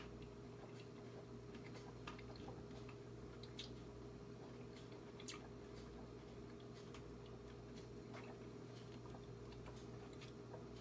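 Faint steady hum with scattered light clicks and ticks.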